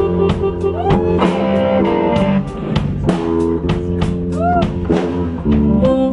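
Blues band playing an instrumental passage: guitar with bent notes over a drum kit keeping a steady beat.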